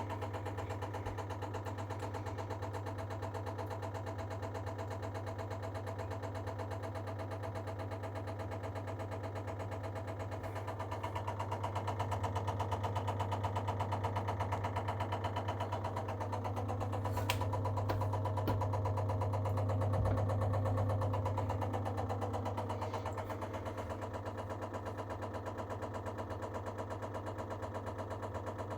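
Baxi Duo-Tec gas combi boiler running with a steady low hum and a fast, repeated knocking as it prepares to heat. The sound swells louder in the middle, with a single sharp click.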